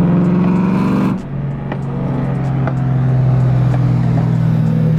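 Car engine running at a steady pitch, dropping suddenly to a lower steady note about a second in, as with a gear change or easing off the throttle.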